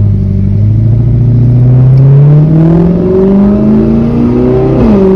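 Straight-piped Audi R8's naturally aspirated V8 revving, climbing steadily in pitch for about four and a half seconds. The throttle is then let off and it falls quickly back toward idle near the end.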